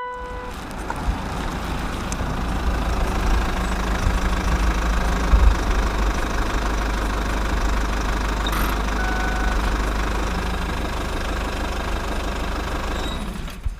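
Engine of a heavy construction machine running steadily, with a deep rumble.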